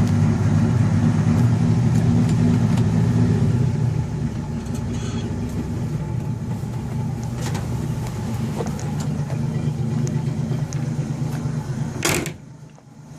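Original 1967 truck straight-six engine idling steadily while still a little cold, a bit quieter after about four seconds, with a brief rush of noise near the end.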